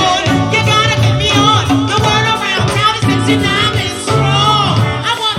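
Live go-go band music: a singer's melody over a steady bass line and percussion groove.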